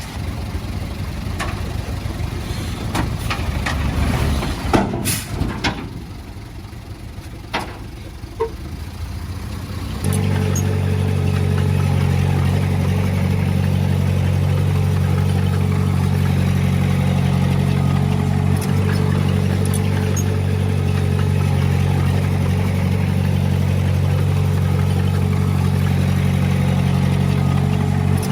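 Heavy-equipment diesel engine running, uneven at first with a few knocks. About ten seconds in, the sound switches abruptly to a louder, steady engine note that holds level.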